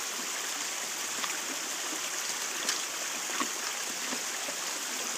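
Creek water rushing and trickling steadily over rocks, a cleared stream running freely after a logjam of sticks and logs was pulled out.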